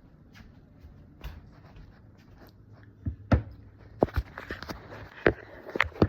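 Kitchenware being handled: several sharp knocks and taps with some rustling clatter, starting about three seconds in.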